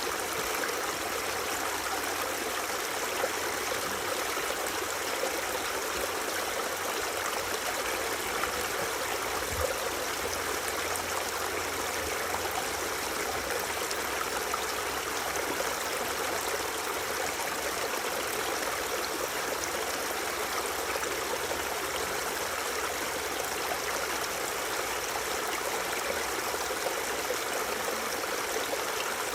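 Water from a waterfall rushing and splashing steadily, with no change in strength.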